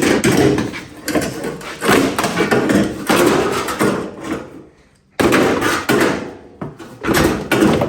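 Loud, dense knocking and clattering of metal parts being pried and pulled loose under the truck, in two spells with a brief break about five seconds in.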